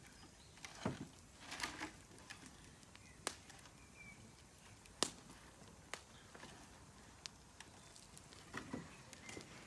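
Campfire crackling: faint, irregular sharp pops and snaps, with a few short louder bursts near the start and again near the end.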